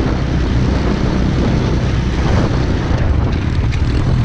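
Small single-cylinder pit bike engine running steadily while riding, with a constant rushing noise over it.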